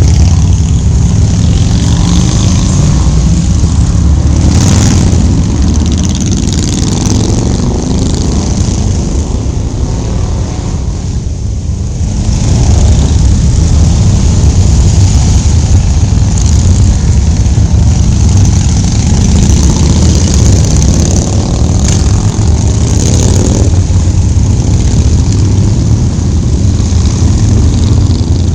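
Motorcycle engines running during a group ride, loud and low, with a brief dip in level about ten to twelve seconds in before the sound picks back up.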